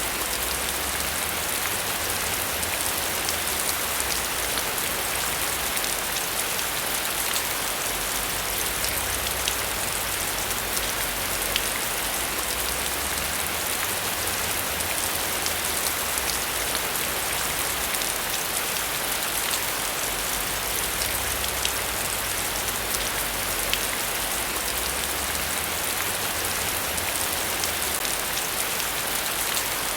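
Steady heavy rain: a dense, even hiss of rain falling on surfaces, dotted with many small drop taps. A low rumble underneath swells and fades.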